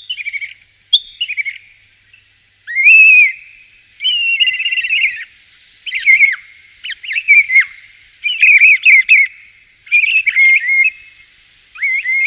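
Common starling singing: a run of varied short phrases of whistles, warbles and rattly chatter, each about a second long with short pauses between.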